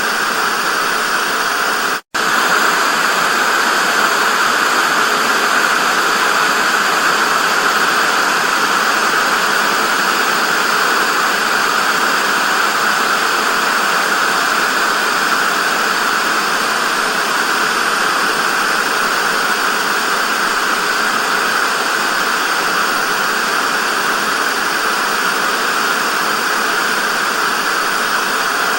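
Analogue TV static: a steady, loud hiss of white noise, strongest in the upper-middle range. It cuts out for an instant about two seconds in, then carries on unchanged.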